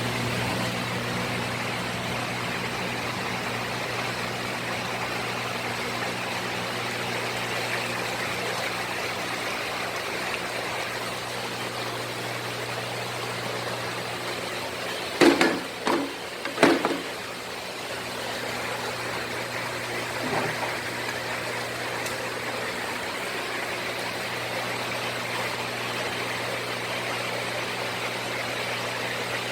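A steady mechanical hum under an even hiss, with a few sharp knocks about halfway through and a lighter one a few seconds later.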